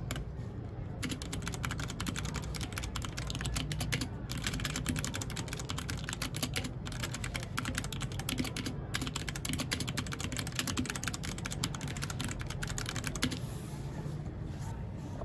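Mechanical keyboard typing: fast runs of key clicks with brief pauses, starting about a second in and stopping about thirteen seconds in, over a steady low hum.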